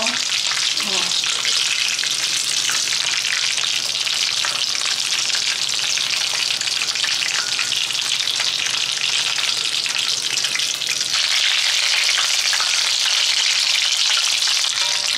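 Vegetable lumpia (Filipino spring rolls) shallow-frying in hot oil in a pan: a steady sizzle with fine crackling, a little louder from about eleven seconds in. The rolls are nearly cooked and already browned.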